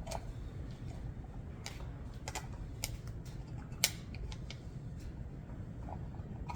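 Scattered small metal clicks and taps of a screwdriver working screws out of a carburetor body, with one sharper click a little past the middle, over a steady low hum.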